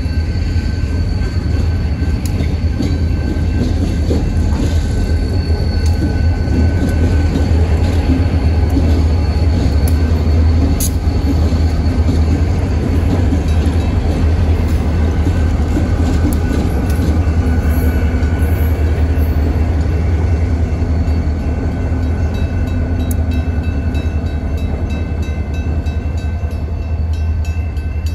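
Heavily loaded freight train moving slowly over a grade crossing: a steady low rumble of rolling cars, with diesel locomotives at the tail of the train passing about halfway through. Thin, faint wheel squeal from the curve is heard over the rumble.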